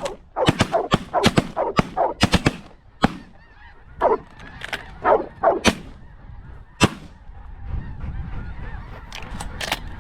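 Snow geese honking, a dense chorus of short, high calls that thins out after about six seconds. Low wind rumble on the microphone follows.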